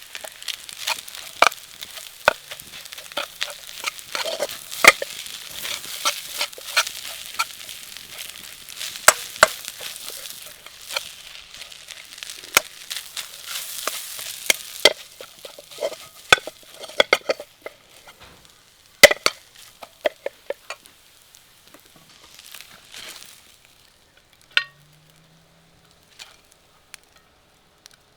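Stir-frying: food sizzling in a wok while a metal ladle repeatedly strikes and scrapes it. The sizzle dies down about halfway through, leaving scattered taps and clinks.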